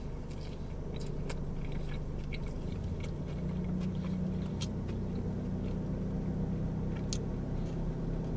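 A person biting into and chewing a steak-and-cheese sub sandwich with the mouth closed, with scattered small clicks, over a steady low hum.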